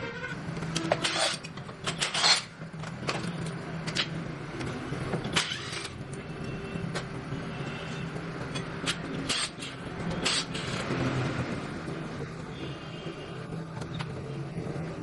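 Scattered sharp metallic clicks and knocks of hand tools on engine parts during a motorcycle engine strip-down, over a steady low hum.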